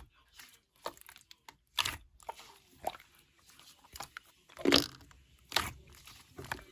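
Hands squeezing and kneading sky-blue iClay lightweight clay: a run of short, irregular crackling squishes, the loudest about four and a half seconds in.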